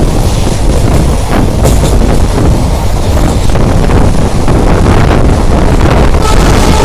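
Passenger train coach in motion, heard from on board: a loud, steady rumble of wheels running on the track.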